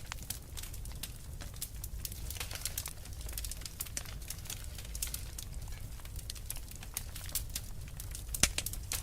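Wood fire burning in a fireplace, crackling with irregular sharp pops over a steady low rumble; one pop near the end is louder than the rest.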